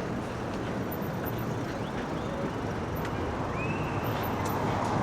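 Steady street traffic and road noise heard while riding an e-bike, with a short high chirp about three and a half seconds in.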